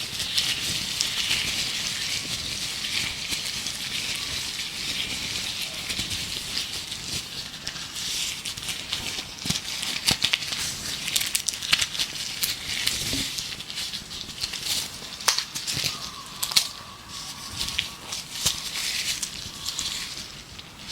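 Gloves rubbed and crinkled close to the microphone, a stream of sharp crackles that grows busier partway through, over background birdsong.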